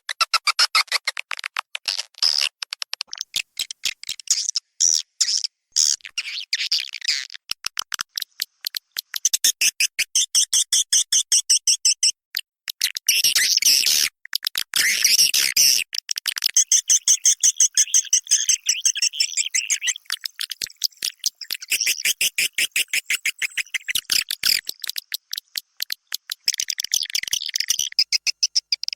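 Swiftlet calls from a lure-sound recording: rapid, high-pitched trains of chirps and twitters in stretches of a few seconds, broken by short pauses.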